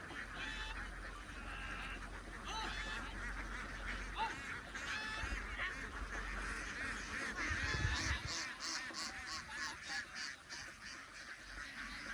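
A large flock of ducks quacking and calling, many overlapping calls, with a quick run of repeated calls after the middle.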